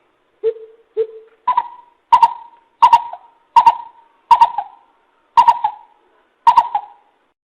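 A coucal calling a series of hollow hoots. Two lower notes come first, then seven higher notes, each starting sharply and spaced under a second apart.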